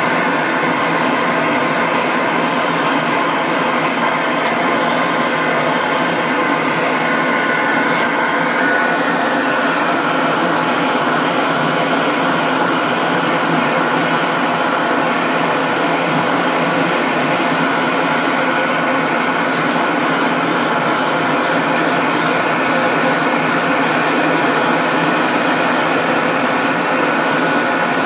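Grooming blow dryer running steadily, a loud even rush of air with a motor whine through it that shifts slightly about nine seconds in.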